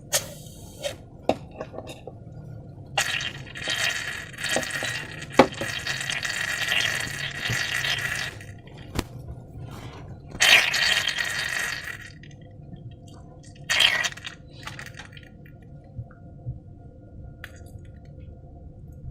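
Slime ingredients being poured and handled in containers: three stretches of liquid pouring or squirting, the first about five seconds long, with sharp clicks and clinks of containers between them.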